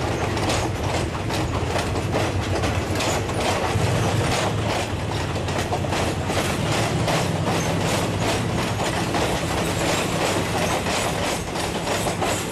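Passenger coaches of a train rolling past, their wheels clattering in an uneven rhythm over rail joints and points, over a steady low hum.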